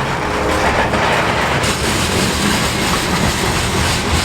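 Train rolling past at close range: a steady, loud rumble and clatter of wheels on the rails, with a faint squeal that dies away within the first second.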